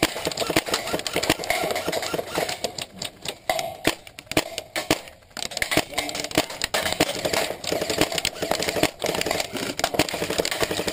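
Rapid, dense airsoft gunfire: many guns snapping off shots and BBs cracking against the cover, easing briefly about four to five seconds in before picking up again.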